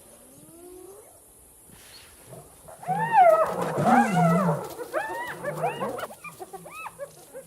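Spotted hyenas calling: a faint rising call near the start, then a clamour of high, arching yelps from about three seconds in, loudest around three to four seconds and thinning out toward the end.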